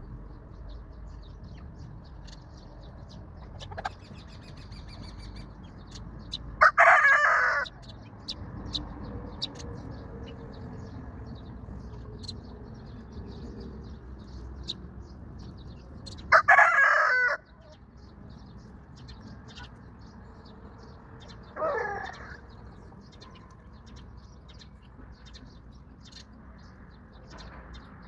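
Rooster crowing, two loud calls of about a second each, and a shorter, fainter call a little later. Small birds chirp faintly throughout.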